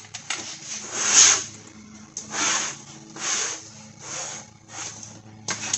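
A plastic panel scraping as it is slid out of an LED sign's frame, in about five short scraping strokes.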